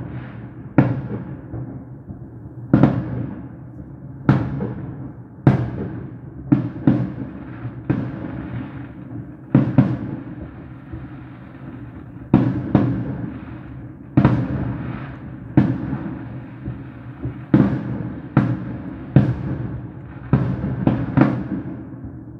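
Fireworks shells bursting overhead: a string of sharp booms at irregular intervals, about one a second, each ringing out with an echoing tail, some in quick pairs.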